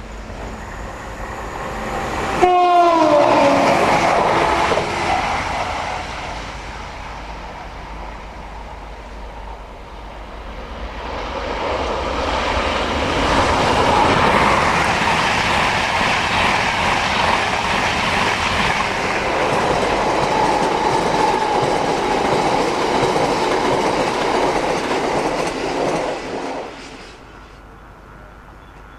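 Diesel locomotive hauling tank wagons sounds its horn, one loud blast that slides down in pitch, about two seconds in. Later an InterCity 225 express of Mk4 coaches rushes past at speed for about fifteen seconds, then the sound cuts off suddenly near the end.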